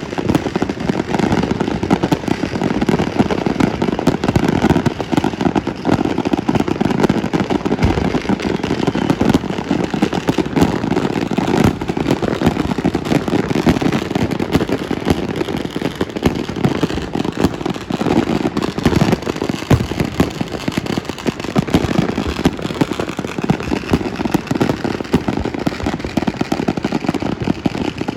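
Many fireworks and firecrackers going off at once in a dense, continuous crackle of pops with no break.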